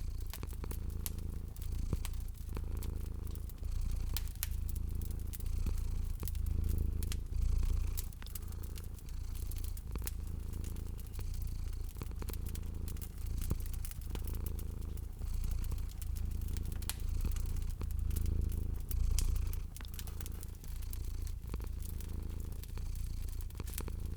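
Domestic cat purring steadily, a low rumble that swells and fades with each breath about every one to two seconds, over fireplace fire crackling with frequent small pops and snaps.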